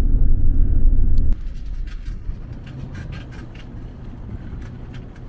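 Steady low rumble of a truck driving, heard from inside the cab, which cuts off suddenly just over a second in. After it comes a quieter low rumble with irregular light crackling ticks.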